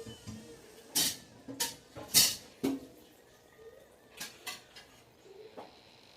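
Dishes and utensils clattering as they are handled: a quick run of sharp knocks and clinks, then a few lighter ones further apart.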